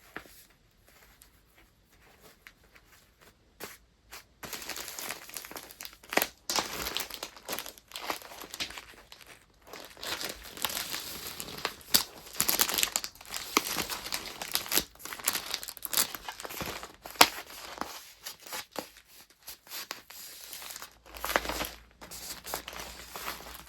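Paper and packing materials being handled and wrapped: crinkling and rustling with sharp crackles. It starts about four seconds in after a few faint taps and eases off briefly near the end.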